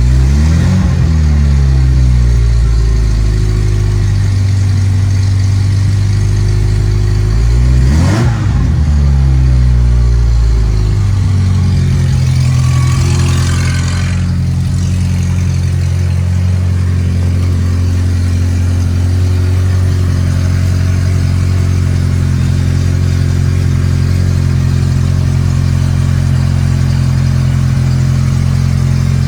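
Ferrari Mondial 3.2's V8 engine running just after a cold start: two short throttle blips, about a second in and about eight seconds in, each rising and falling back, then a steady idle.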